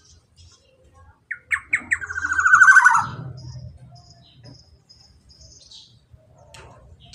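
Black-naped oriole calling: a few quick downward-sliding notes run into a loud, rapid rattling trill about a second long, followed by faint high chirps.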